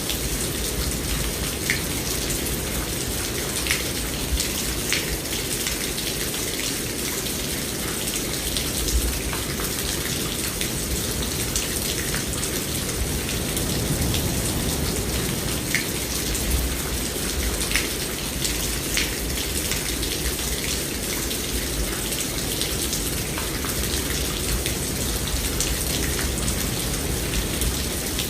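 Steady heavy rain with scattered sharp drips landing on a surface, over a low rumble.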